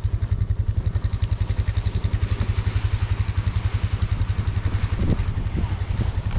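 Four-wheeler (ATV) engine running steadily, with a fast, even pulse.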